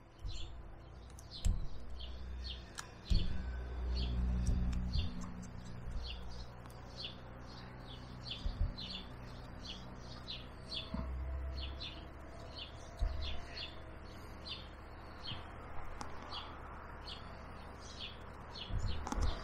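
A bird chirps over and over, two or three short high chirps a second, throughout. Beneath it come soft low scrapes and thumps from a small knife paring a wooden dowel held in the hands, loudest in the first few seconds.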